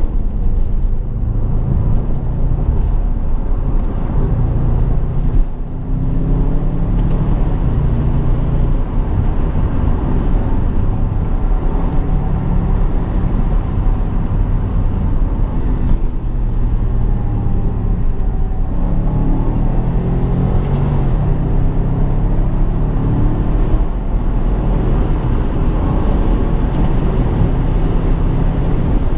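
BMW 650i's V8 engine and road noise while driving, a steady low rumble with the engine note rising and falling as the car speeds up and eases off.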